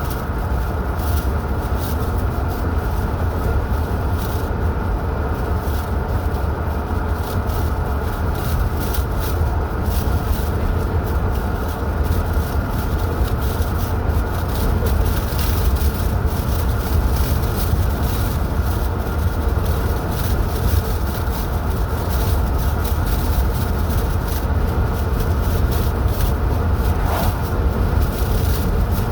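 Steady road and engine noise of a car driving at speed: a constant low rumble with tyre and wind hiss over it.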